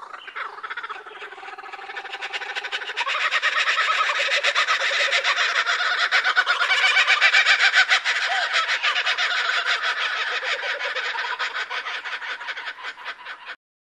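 A flock of birds calling at once: a dense chorus of rapid, overlapping calls that builds over the first few seconds and cuts off abruptly near the end.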